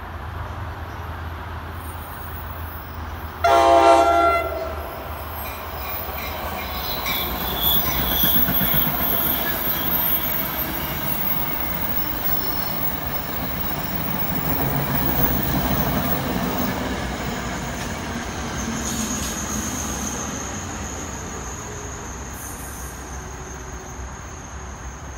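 An NJ Transit electric-hauled passenger train sounds its horn in one short blast about three seconds in, then its coaches and locomotive run past on the tracks. A thin, high wheel squeal sets in near the end.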